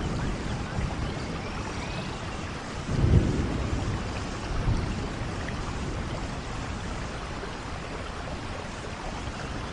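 Steady rain with low rumbles, the loudest about three seconds in.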